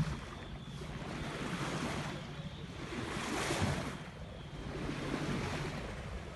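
Sea water washing along a sailing boat's hull while under way, with wind buffeting the microphone; the wash surges twice, at about two seconds in and again about three and a half seconds in.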